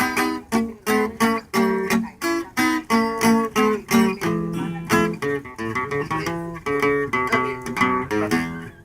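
Acoustic guitar strumming a ranchera rhythm with bass notes, an instrumental passage between sung verses.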